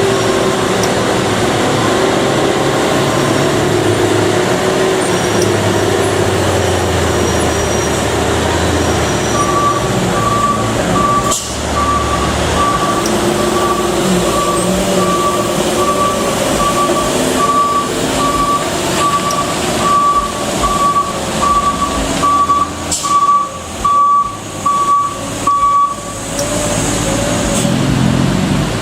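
Heavy truck engine running, with a reversing alarm beeping evenly about twice a second from about ten seconds in, stopping shortly before the end. Several sudden sharp sounds come in the last few seconds of the beeping.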